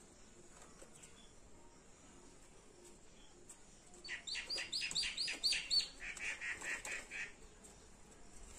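A bird calls a fast run of sharp chirps, about six a second, starting about four seconds in: a higher-pitched run, then a slightly lower one, about three seconds in all. A rooster's wings flutter as the run begins.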